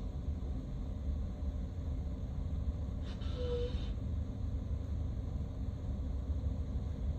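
Steady low rumble, with a brief hiss and a short tone about three seconds in.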